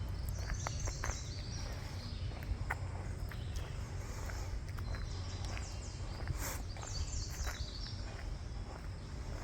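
Walking footsteps on a path while birds sing in the surrounding trees, short repeated chirpy phrases twice, over a steady low rumble.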